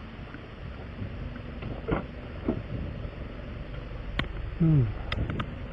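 Steady low rumble of an idling vehicle, with a few sharp clicks and a short sound falling in pitch about four and a half seconds in.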